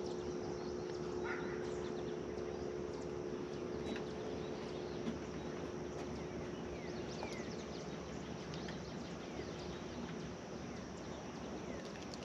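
Outdoor wetland ambience: a few faint, short bird chirps over a steady background hiss, with a low steady hum that fades away after about the middle.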